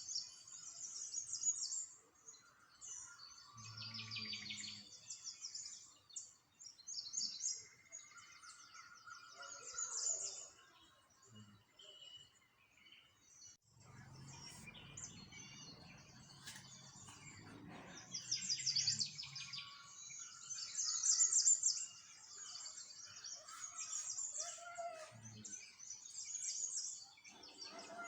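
Small songbirds chirping and trilling, several calls overlapping in quick runs. A low rumble comes in about halfway through and lasts a few seconds.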